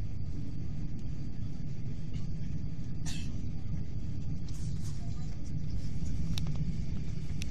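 Steady low rumble of a Hyundai Rotem Intercity+ electric train running at speed, heard from inside the carriage, with a few short sharp clicks, one about three seconds in and another about six seconds in.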